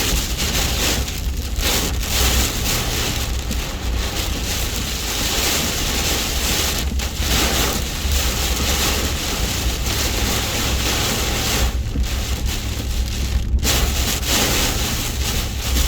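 Heavy rain pouring onto a pickup truck in a windstorm: a loud, dense, steady rush of rain with a low rumble underneath.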